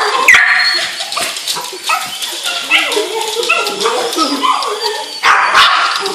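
Cockapoo barking again and again at a toy helicopter: high, yipping barks mixed with whines, the loudest burst about five seconds in.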